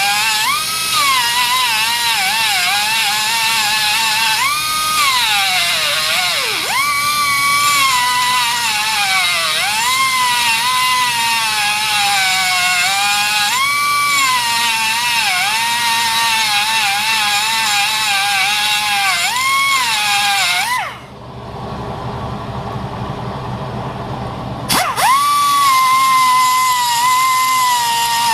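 Die grinder whining as it grinds down a steel bolt, its pitch dipping and recovering again and again as it bites under load. About 21 seconds in it stops for roughly four seconds, leaving only a lower rumble, then starts again.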